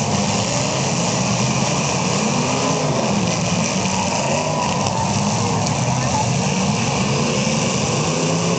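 Demolition derby cars' engines running over a dense, steady din, their pitch wavering up and down as they rev unevenly.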